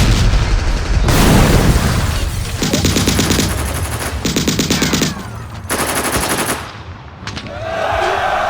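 Dubbed battle sound effects: a heavy gun fires at once, a blast rumbles about a second in, then machine guns fire three rapid bursts, each under a second long. A steady tone comes in near the end.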